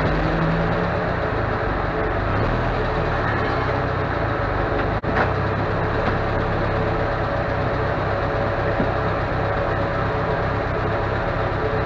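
Škoda 130 RS rally car's rear-mounted four-cylinder engine idling steadily, heard from inside the cabin, with a brief tick about halfway through.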